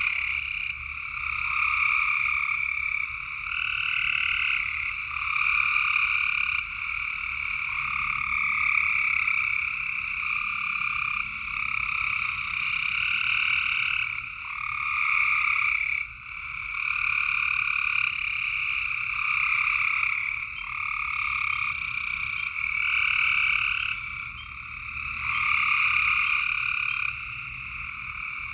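A dense chorus of frogs calling, their overlapping trilled calls swelling and fading every second or two without a break.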